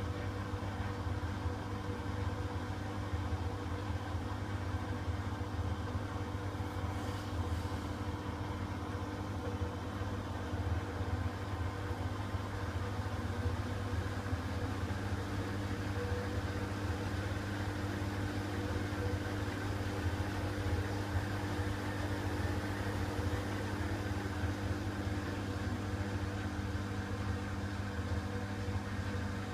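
Hoover WDYN 11746 PG8 washer-dryer running through its rinse-and-spin stage: a steady machine hum with a few steady low tones.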